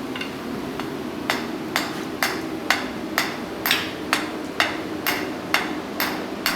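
Hammer blows on the end of a 1/2-inch square steel bar being upset, driving the metal back to thicken it: sharp ringing strikes at about two a second, starting a little over a second in.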